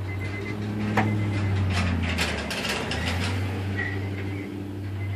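Honda S2000's F20C inline-four engine running at a steady speed through a 4-1 header, test pipe and stock muffler, with a sharp click about a second in and a run of clicks between about two and three seconds in.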